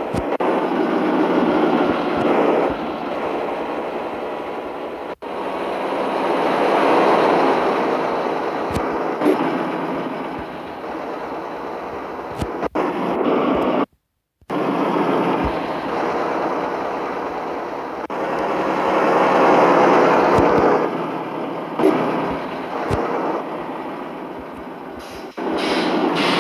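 Diesel engine of a Mitsubishi Fuso truck running, its hum swelling and easing off twice, with a brief cut-out about halfway through.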